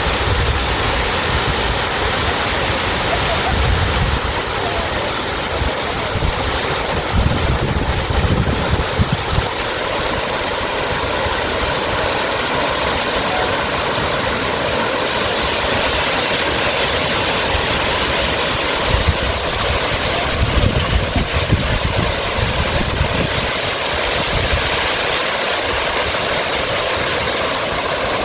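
Steady rushing of running water, with low gusty rumbles of wind on the microphone now and then.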